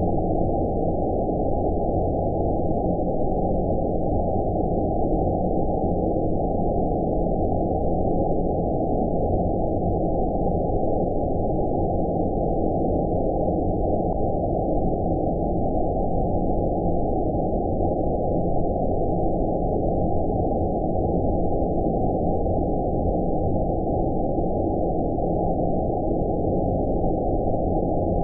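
Steady, deep, muffled noise sold as 'outer space' sleep sound: an unchanging hiss with nothing above about 1 kHz, with no rhythm and no change in level.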